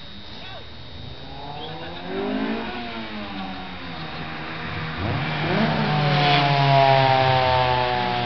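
Car engines revving and accelerating hard, their pitch climbing. One run builds from about a second in, and a louder one rises from about five seconds in.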